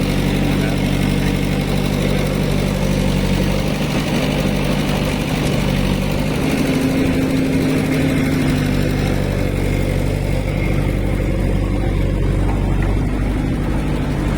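Diesel engine of a heavy machine running steadily at a constant speed, its note even throughout.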